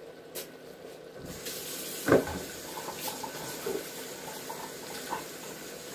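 Kitchen tap turned on and running into the sink as mushrooms are rinsed, starting about a second and a half in, with a sharp knock shortly after and a few light clinks.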